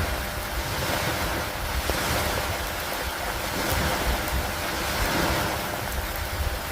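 Steady rainfall, an even dense hiss, with a low rumble underneath and a few faint ticks of drops landing.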